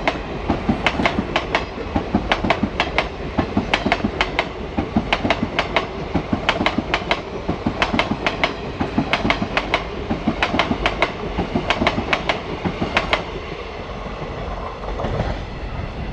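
A passing train's wheels clattering over rail joints: quick groups of sharp clacks over a steady rumble. The clacks stop about thirteen seconds in, leaving only a lower rumble as the train moves off.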